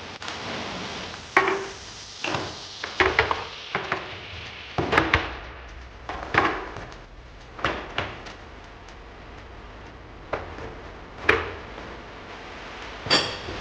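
Irregular knocks and clatters of kitchen things being handled and put away: about a dozen sharp knocks with quiet gaps between.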